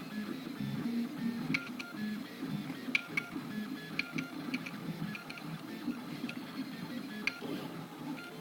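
3D printer's stepper motors whining at shifting pitches as the print head moves, with several sharp clicks along the way.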